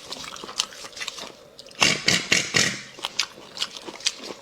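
Close-up eating sounds of spicy bone marrow: lip smacks and wet clicks, then a few loud sucking slurps about two seconds in as marrow is drawn out of the bone.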